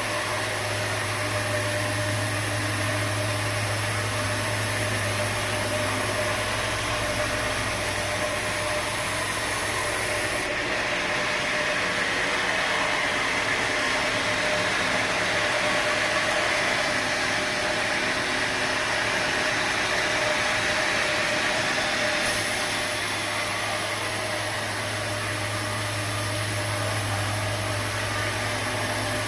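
Sawmill machinery running with a steady mechanical noise and a low hum. About ten seconds in, the sound changes abruptly: the hum drops away and a higher-pitched rush grows stronger. It switches back just as abruptly near the end.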